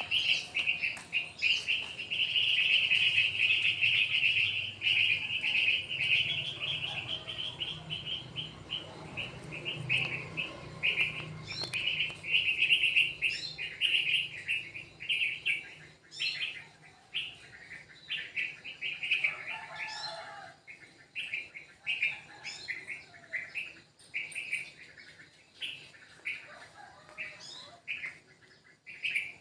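Small birds chirping: a dense, nearly unbroken stream of high chirps for about the first half, then separate short chirps a few times a second.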